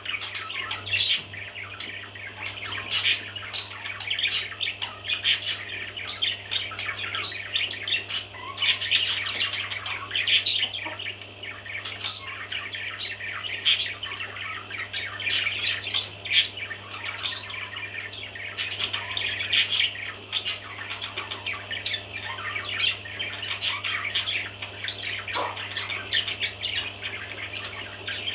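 Baby parrots chirping and calling without pause, with sharp louder squawks every second or so, over a low steady hum.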